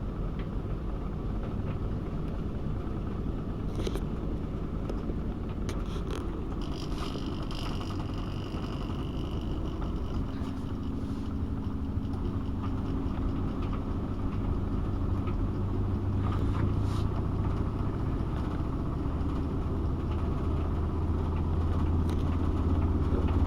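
AEG Öko-Lavamat 72520 washing machine running with a low steady hum and rumble that grows gradually louder through the second half.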